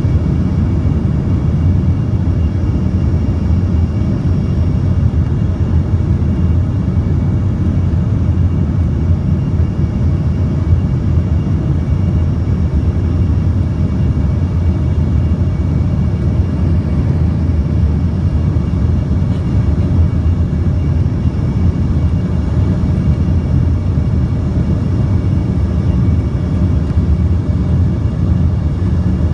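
Aircraft engines and airflow during a landing, a steady low rumble that neither rises nor falls.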